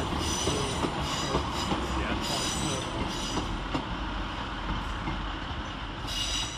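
Two coupled Class 150 diesel multiple units pulling away, with rumbling running noise and several short spells of high-pitched wheel squeal.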